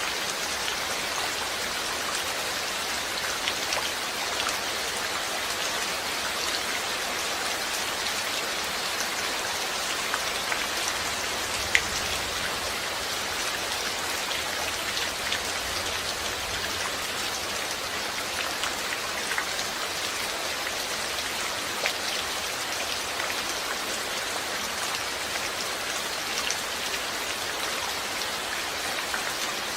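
Steady rain falling, a dense even hiss with scattered individual drops ticking, including one sharper drop about twelve seconds in.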